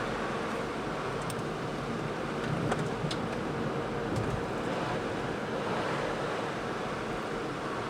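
Steady rushing noise with a faint hum underneath and a few light ticks.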